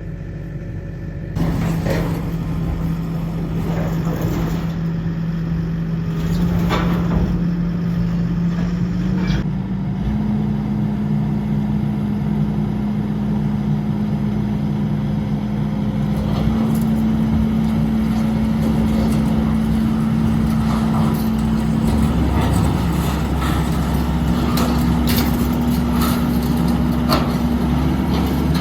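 Skid steer engine running hard, getting louder about a second in, then stepping up in pitch several times as the throttle is raised. Scattered knocks and clanks sound over it.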